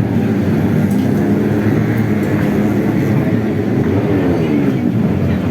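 Small-capacity racing motorcycle engines running loud and continuous, the pitch swelling up and down about four seconds in.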